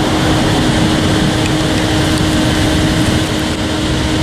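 An eastbound intermodal stack train rolling past, a steady rumble and rattle of wheels and cars with a steady hum underneath.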